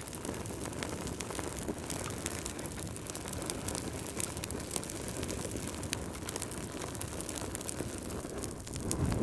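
Crackling wood fire: a steady low rush of burning with frequent small sharp crackles and pops, swelling briefly near the end.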